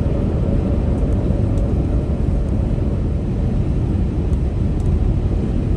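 Steady low rumble of a vehicle being driven: engine and road noise with no change in pace.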